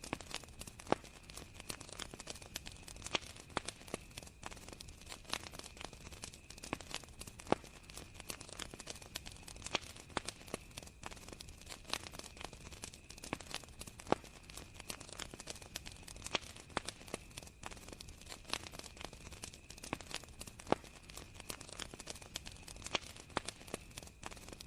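Wood fire crackling, with irregular sharp pops and snaps, over crickets' steady high-pitched chirring.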